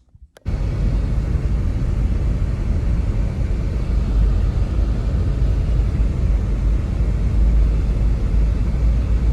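Steady, loud wind noise of a snowstorm, a rumble heaviest at the low end, starting abruptly about half a second in and holding even.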